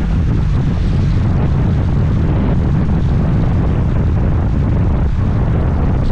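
Steady low wind rumble on the microphone from a moving scooter, with road and vehicle noise underneath.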